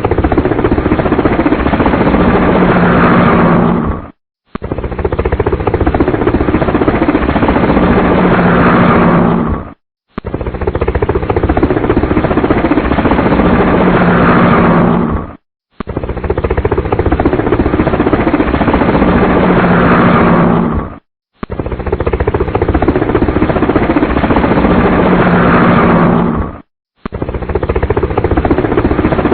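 Helicopter rotor and engine noise, a loud rapid chop. It cuts out for a moment about every five and a half seconds and starts again the same way, as if one short recording were repeated.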